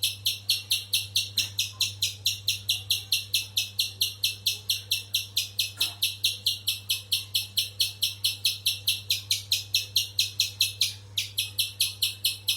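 Spiderhunter calling: sharp, high chips repeated very evenly at about five a second, without a break. A steady low hum lies beneath.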